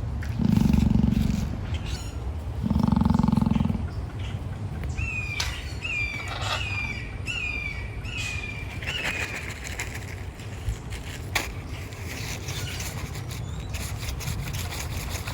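Emu giving two deep, low snorting calls about two seconds apart, each lasting about a second. In the middle, a small bird chirps about six short falling notes in quick succession.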